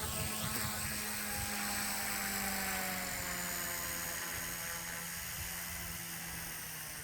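Align T-Rex 150X electric micro RC helicopter's motor and rotor whining, the pitch sliding slowly lower and the level gradually falling, with wind rumbling on the microphone.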